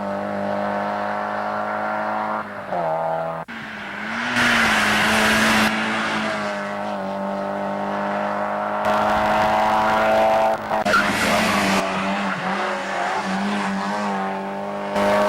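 Mazda MX-5 Cup race car engine running hard at high revs, its note climbing slowly as it accelerates. About three and a half seconds in it breaks off for a moment with a drop in pitch, like a gear change.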